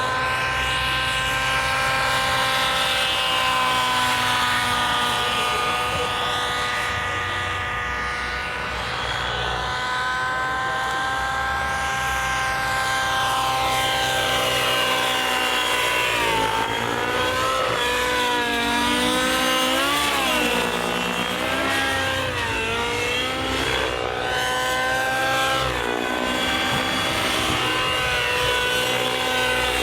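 Radio-controlled model airplane's engine droning in flight. Its pitch holds steady at first, then swings up and down repeatedly in the second half as the plane passes and manoeuvres.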